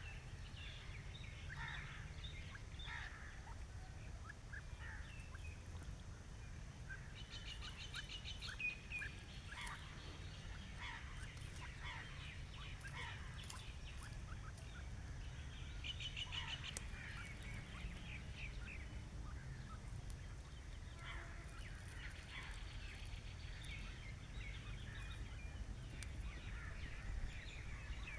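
Grey francolins and other small birds calling in short scattered chirps. Two rapid rattling call series come about 8 s and 16 s in, over a steady low background rumble.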